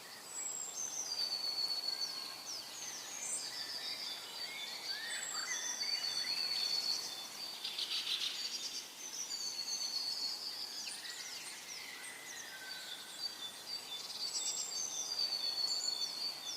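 Small birds chirping and singing: many short, high calls, some sliding in pitch, overlapping through the whole stretch over a faint hiss.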